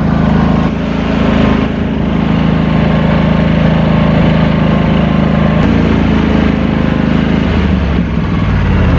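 Riding lawn mower's small engine running steadily, its note changing as it eases off near the end.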